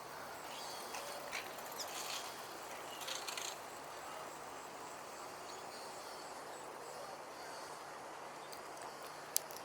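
Steady outdoor background noise, with a few short high chirps in the first few seconds and a single sharp click near the end.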